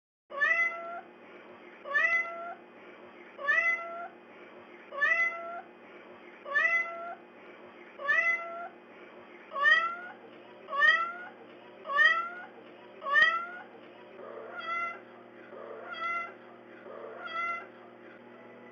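A cat meowing over and over: about thirteen short meows, each rising in pitch, roughly one to one and a half seconds apart, with the last three fainter.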